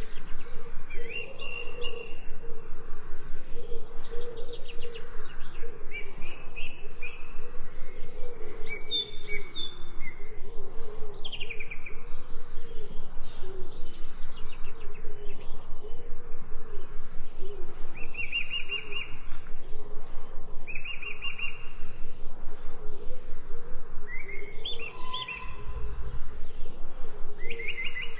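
Forest birds singing in short, repeated chirping phrases, heard several times over the stretch, above a fast, even pulsing lower sound that runs throughout.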